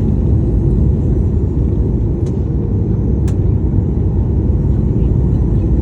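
Steady low rumble of cabin noise inside a Boeing 737-800 as it lands, with two faint ticks about two and three seconds in.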